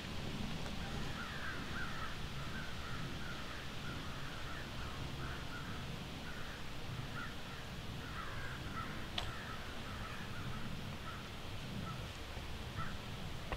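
Birds calling over and over in a long run of short calls, with a single sharp click about nine seconds in.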